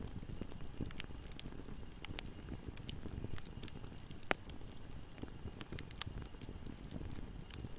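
Wood fire burning with a steady low rumble and frequent small crackles, with two louder sharp pops a little over four seconds and about six seconds in.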